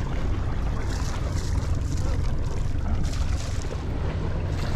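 Wind buffeting the microphone over a steady low rumble, heard aboard a boat under way at sea.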